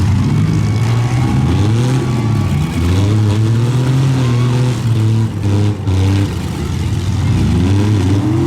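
Engines of several pickup trucks revving up and down over and over in a demolition derby, the pitch rising and falling with each push on the throttle.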